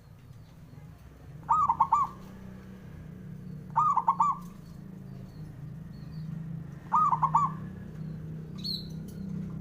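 Zebra dove (perkutut) cooing: three short phrases, each a quick run of about four notes, a few seconds apart. A brief higher chirp from another bird comes near the end, over a steady low hum.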